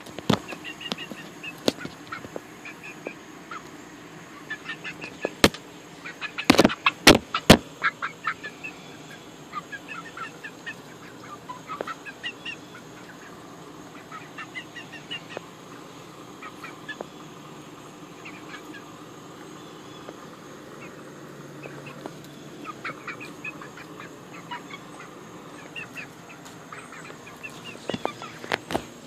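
Many short animal calls scattered throughout, over a faint steady high-pitched hum. A few sharp loud clicks or knocks come about six to seven seconds in.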